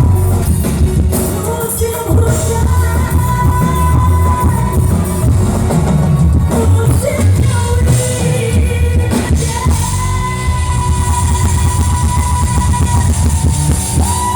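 Live dangdut band music with a woman singing long held notes over a steady, heavy bass.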